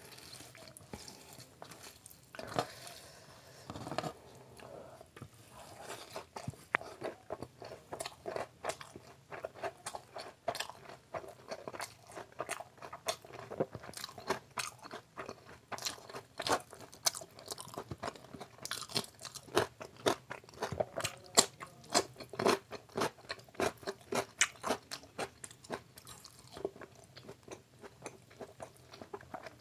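Close-miked eating: a person chewing and crunching mouthfuls of food, a dense, uneven run of small sharp crunches and wet mouth clicks that grows busier after about five seconds.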